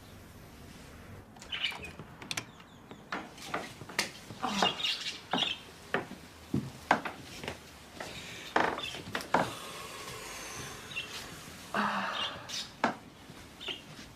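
Short bird chirps, several times, among scattered knocks and clicks.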